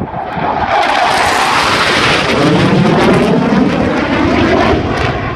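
An airplane at an air show passing close by, a loud rushing engine noise that swells over the first second, is fullest about two to three seconds in, then eases a little.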